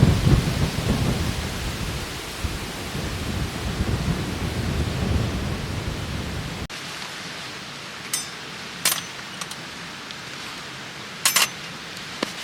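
Strong wind gusting against the microphone: a heavy low rumble that slowly eases and then cuts off abruptly. After it, a faint steady hiss with a few sharp clicks.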